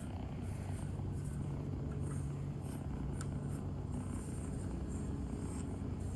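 Small motorcycle engine idling steadily, a low, even hum.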